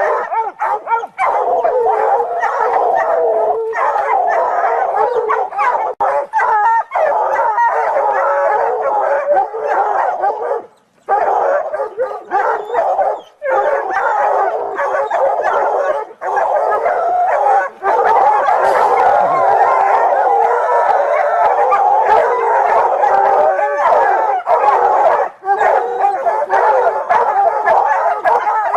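A pack of dogs barking and howling together in a dense, continuous din, broken by a few short gaps.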